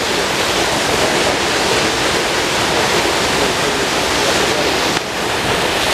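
Steady rushing noise of wind and water, with a brief dip about five seconds in.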